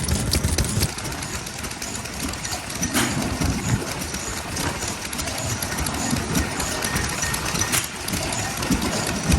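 Vintage stationary farm engines running at idle, a steady mechanical chugging with scattered clicks.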